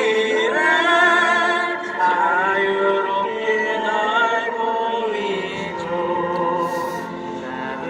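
A choir of many voices singing a slow, sustained song together.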